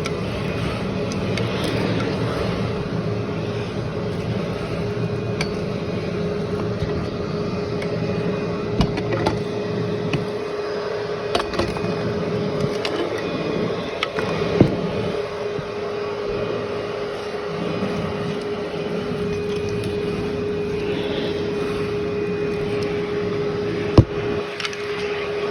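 Vacuum cleaner running steadily over deep carpet, with a constant whine and scattered crackles and clicks as built-up grit is sucked in; one sharp click near the end.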